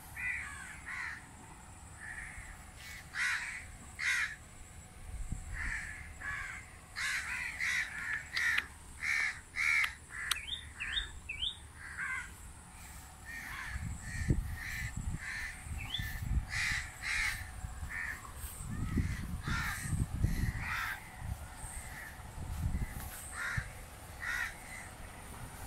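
Birds calling again and again, many short separate calls, with a few quick higher chirps about ten seconds in. Low rumbling comes and goes in the middle stretch.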